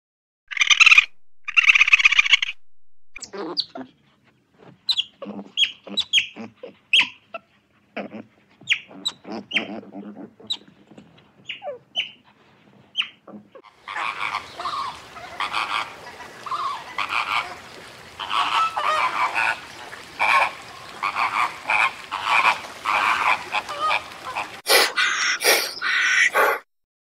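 Short animal calls and chatters, then, about halfway through, a flock of flamingos calling in a dense chorus of repeated honks, which cuts off suddenly near the end.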